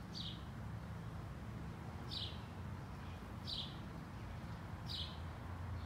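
A bird calling, a short falling chirp repeated four times at about one-and-a-half-second intervals, over a steady low hum.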